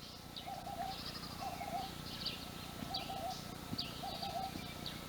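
Several wild birds calling together: a short low call repeated roughly once a second, with quick higher chirps and trills over it.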